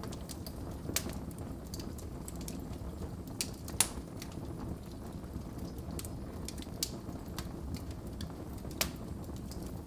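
Wood fire burning in a fireplace: a low steady rumble of flames with irregular sharp crackles and pops, the loudest about four seconds in.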